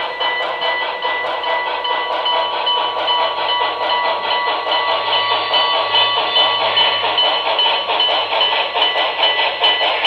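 Paragon 3 sound system of an HO scale Broadway Limited Imports Reading T-1 steam locomotive model, playing steam locomotive sounds with a steady rhythmic beat through the model's small speaker.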